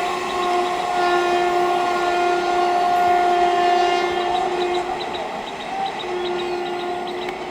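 Indian Railways EMU local train's horn sounding a long steady blast, silent for about a second, then sounding again near the end, over the noise of the train.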